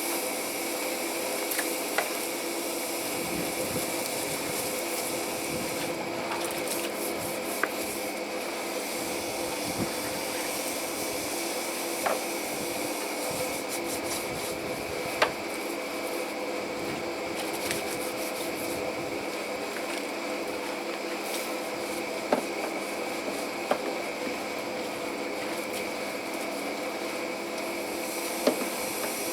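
A machine running steadily: an even hum with several steady tones, and a sharp click every few seconds at irregular times.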